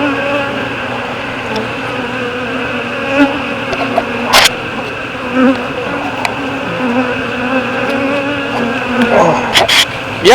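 A shaken honey bee swarm buzzing loudly as a steady, dense hum of many wingbeats. A few sharp clicks cut through it, one about four seconds in and two near the end.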